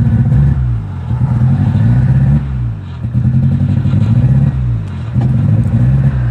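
Metro's engine running rough, its revs sagging and picking back up about three times, sputtering at around 2,000 rpm and unable to rev past it.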